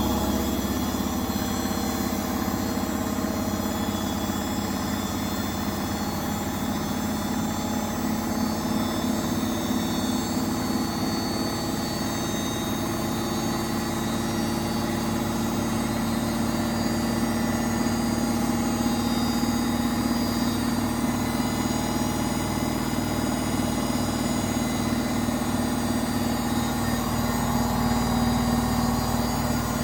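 Beko washing machine on its final spin, motor and drum running steadily at high speed with a constant hum and whine.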